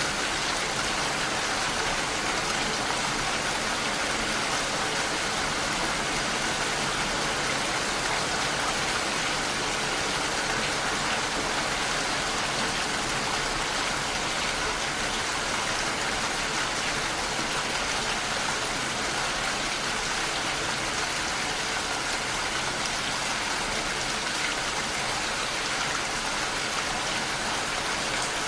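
Steady rain falling and pattering against a window pane, an even hiss with no let-up.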